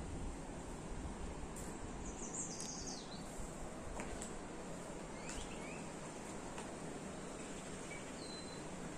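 A few bird calls against steady outdoor background noise: a run of falling chirps about two seconds in, a rising chirp past the middle and a short high whistle near the end. A thin steady high tone runs underneath.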